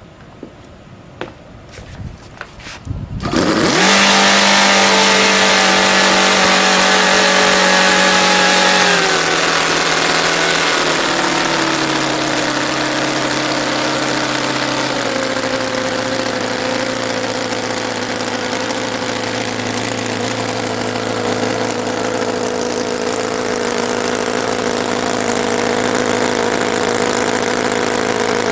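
TechnoPower 9C 1/5 scale nine-cylinder four-stroke glow-plug radial engine with propeller starting: a few clicks, then it catches about three seconds in and runs at high speed. Its speed then drops in three steps, settling to a steady lower running speed.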